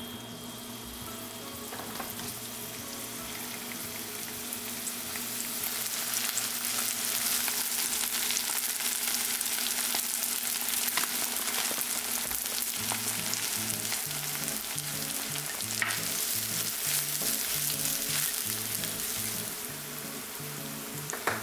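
Food frying in hot oil in a pan: a steady sizzle that grows louder about five seconds in and eases off near the end, with scattered ticks and spits of oil and an occasional stir.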